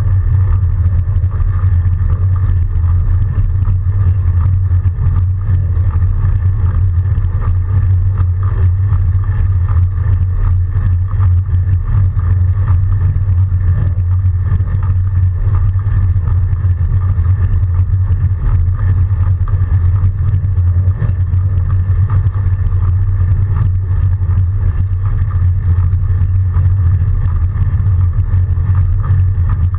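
Steady rumble of wind buffeting the microphone on a fat bike ridden through a snowstorm, with a fainter, steady higher hum above it.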